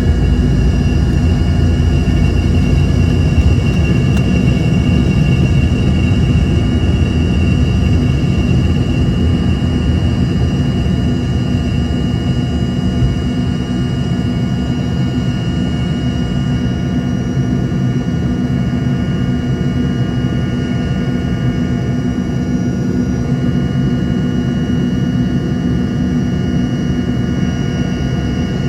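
Embraer ERJ-145's twin rear-mounted Rolls-Royce AE3007 turbofans heard from inside the cabin: a steady rumble with high whining tones, easing slightly in level after about twelve seconds.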